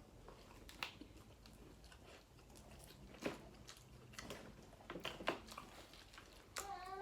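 Close-miked eating sounds: faint chewing with a few sharp clicks and crunches scattered through.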